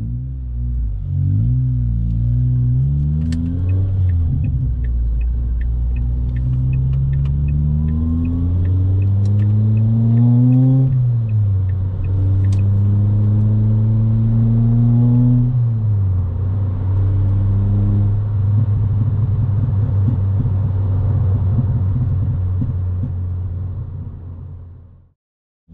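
Ford Fiesta ST Mk6's 2.0-litre four-cylinder engine, breathing through a new exhaust with the catalytic converter and intermediate silencer removed, heard from inside the cabin with the windows up. The car accelerates through the gears: the note rises in each gear and drops at three upshifts, then settles into a steady cruise. A light ticking about twice a second runs through the first half.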